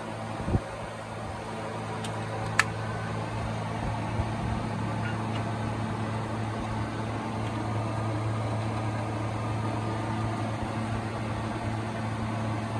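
Toyota Premio's 1ZZ-FE 1.8-litre four-cylinder engine idling steadily, an engine brought in for an abnormal noise. Two short sharp clicks sound in the first few seconds.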